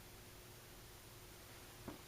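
Monte Carlo Homeowners Max 52-inch ceiling fan running on low speed: a faint steady motor hum over quiet room noise, with one small click near the end.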